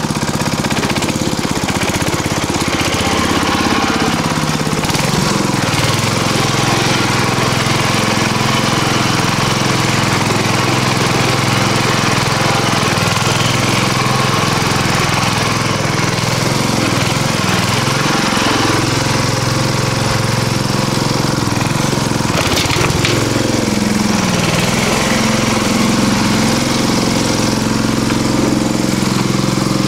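Engine of a riding lawnmower converted into a mini tractor, running steadily as it drives, its pitch dipping and rising a few times. A brief sharp clatter sounds about two-thirds of the way through.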